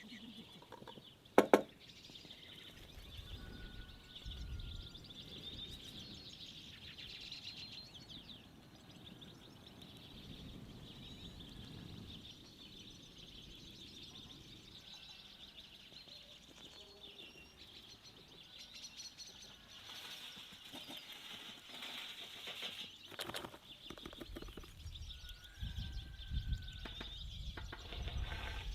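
Birds chirping against a steady high chorus, with a single sharp knock about a second and a half in and some low rumbling near the end.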